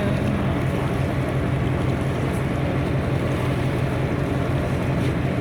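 Tour boat under way, its engine running steadily, with water rushing past the hull and wind on the microphone.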